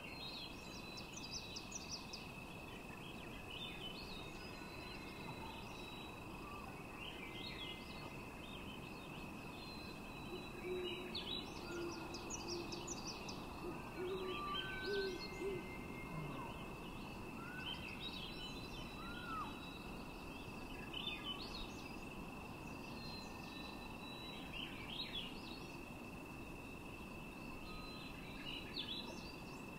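Birds calling: short high chirps and trills scattered throughout, with a few short low calls around the middle, over a steady thin high tone and a faint hiss.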